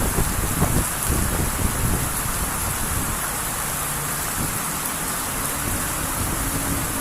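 Heavy rain pouring down steadily, with gusts of strong wind rumbling on the microphone during the first second or two.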